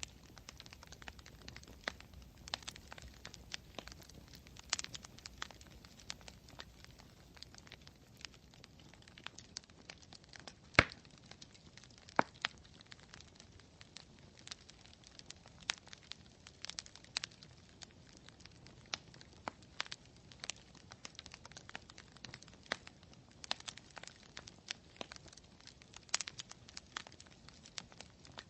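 Campfire crackling: irregular small pops and snaps over a faint hiss, with one sharper, louder pop about eleven seconds in.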